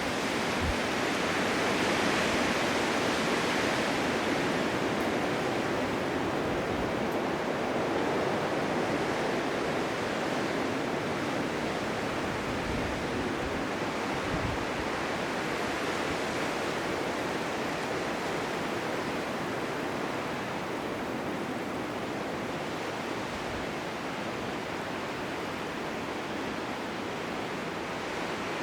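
Blizzard wind blowing in a steady hiss, a little stronger about two seconds in and easing slowly toward the end.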